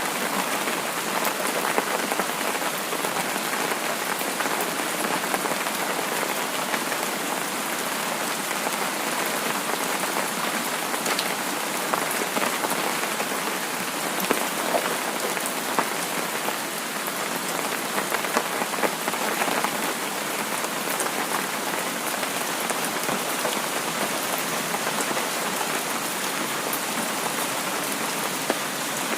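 Steady rain falling on a surface, a continuous even hiss with many small drop patters.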